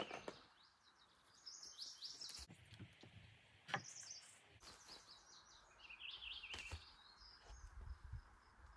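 Wild birds singing in short repeated chirping phrases, faint against a quiet background, with a few scattered knocks, the sharpest about four seconds in.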